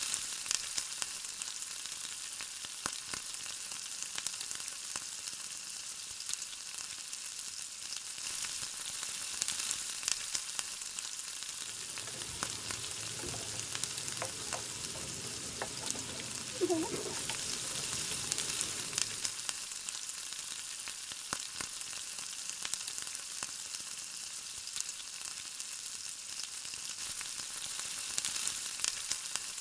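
Steady frying sizzle with fine crackling from food cooking in oil on the stove. From about twelve to nineteen seconds in, a ladle stirring string beans, squash and shrimp in the wok adds lower scraping and clattering, with a short squeak near the middle.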